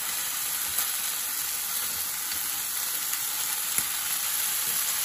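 Chicken wings sizzling as they fry in a frying pan: a steady hiss of hot fat. There are a couple of faint clicks as wooden chopsticks turn the wings.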